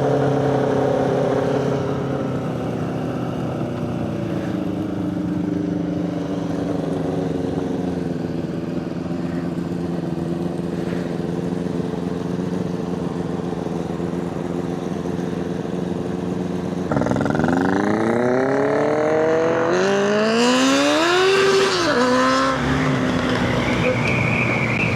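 Motorcycle engine idling steadily, then pulling away about two-thirds of the way through, the revs rising and dropping back several times as it shifts up through the gears.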